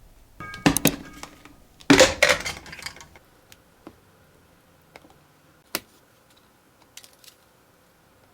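Small objects being handled: two short bursts of clatter in the first three seconds, then scattered single clicks and taps.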